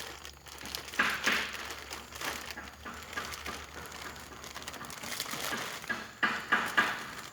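Plastic bag crinkling and rustling in irregular bursts as it is handled and pulled over a potted durian cutting as a humidity hood, loudest near the end.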